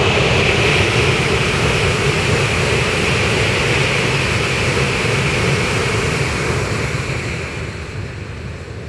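A Shinkansen bullet train crossing a railway bridge at speed: a loud, steady rush with a rumble beneath it, fading near the end as the train moves away.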